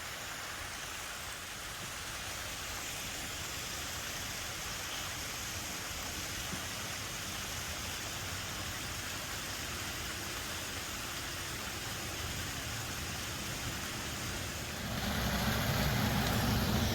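Steady rushing of a small waterfall. About fifteen seconds in, a low rumble comes up and grows louder.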